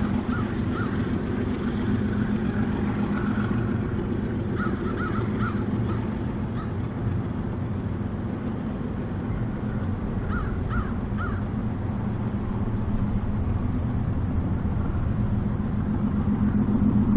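A BNSF freight train rolling past on the Kootenai River Sub, a steady rumble of wheels on rail. Short high calls come over it in runs of three or four: at the start, about five seconds in, and about ten seconds in.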